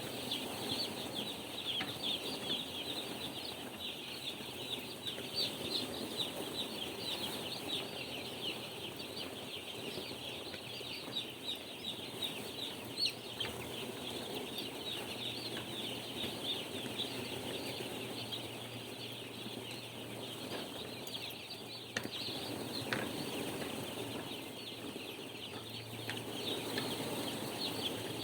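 A large flock of day-old broiler chicks cheeping continuously, many short high peeps overlapping, with a low steady hum underneath.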